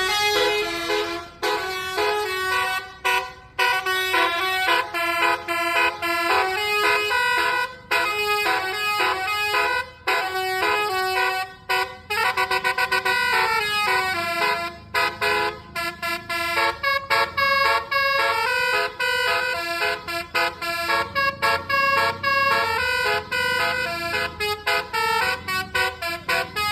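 Indonesian tourist bus's multi-tone musical "telolet" horn playing a melody, switching between held notes and rapid short pips.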